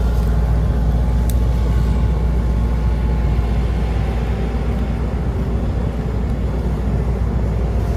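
Engine of an asphalt road roller running with a steady low rumble while it compacts freshly laid asphalt flat.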